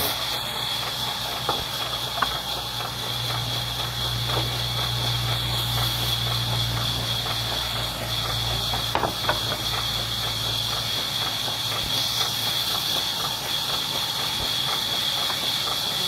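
Wood-cutting saw machine running steadily: a constant high whine over a low motor hum, with a few faint light knocks.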